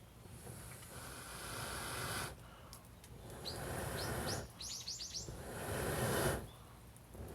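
A small bird chirping, a quick run of short falling chirps around the middle. Three louder surges of rushing noise build up and each cut off abruptly.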